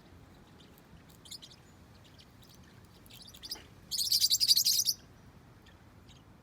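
A parrotlet gives one harsh, rapidly pulsing chattering call, about a second long, some four seconds in. Before it come faint scattered crackles of the bird chewing its yucca toy.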